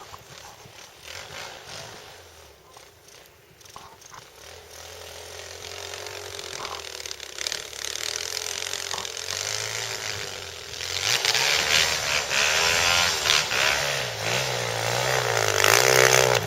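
Pit bike engine running, faint at first and growing louder from about ten seconds in as it comes closer, its revs rising and falling.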